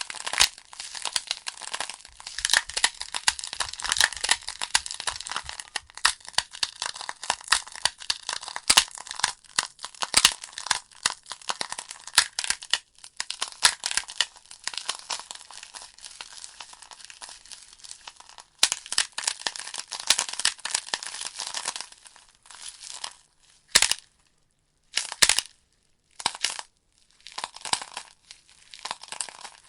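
Wood fire burning in a fireplace, crackling with a dense run of sharp pops and snaps from the burning logs. After about 22 seconds the crackling thins out, with brief quiet gaps between bursts of pops.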